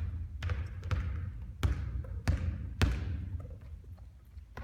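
Basketball bouncing on a court: about five sharp, echoing bounces in the first three seconds, then a quieter stretch.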